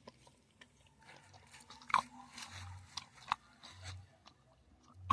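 Chewing with irregular sharp crunches and clicks, the loudest near the end, over a low hum that swells and fades about once a second.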